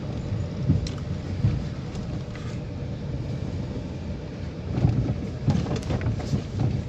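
Car driving over a rough road: a steady low rumble with irregular thumps and rattles from bumps, heaviest about five to six seconds in.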